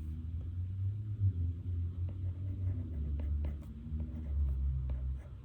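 Faint scratching and tapping of a pen writing notes on paper, over a low rumble that swells and fades.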